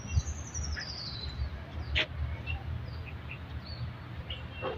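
Birds chirping in short calls, with one thin high whistle near the start that rises slightly and then falls over about a second. A steady low rumble runs underneath, and there is a sharp click about two seconds in.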